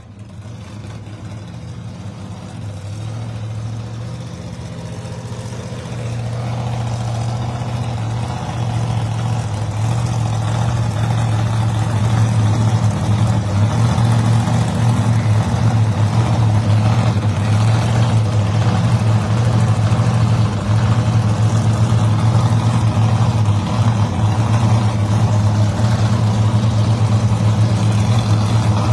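Drag-racing car engines idling with a deep, steady rumble. The sound grows louder over the first dozen seconds, then holds steady.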